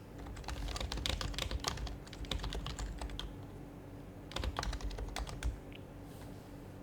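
Typing on an HHKB Professional HYBRID Type-S keyboard with its silenced Topre switches: two quick runs of keystrokes, the first about half a second in and lasting nearly three seconds, the second shorter and starting after a pause of about a second.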